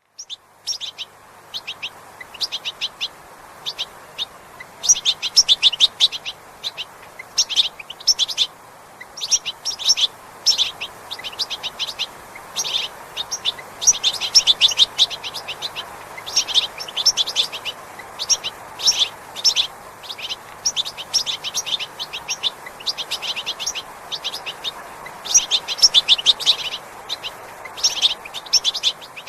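Small birds chirping in rapid twittering runs of short high notes, repeated every second or two throughout, over a steady background hiss.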